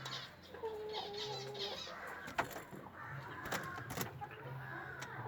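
Birds calling, short clucking and chirping calls, with a few sharp knocks or taps between about two and four seconds in.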